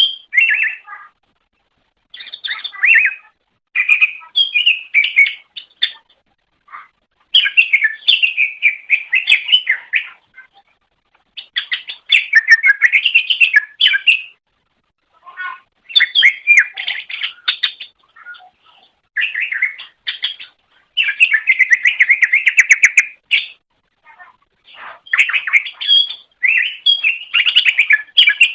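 Cucak ijo (green leafbird) singing: fast, chattering, warbling phrases of one to three seconds, with brief pauses between them.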